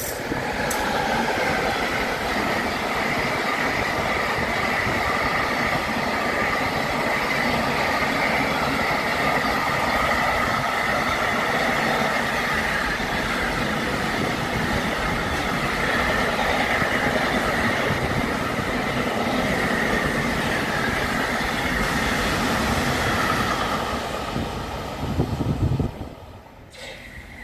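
Container freight train behind an electric locomotive passing at speed: a long steady rolling noise of wagons on the rails with a steady high-pitched wheel squeal, dropping away near the end as the train clears.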